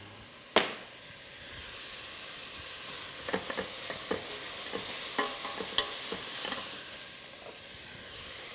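Chopped vegetables sizzling in a stainless steel pot as they are pan-roasted, stirred with a wooden spoon that clicks and knocks against the pot. A sharp knock comes about half a second in, and the sizzle swells for a few seconds and then dies down near the end.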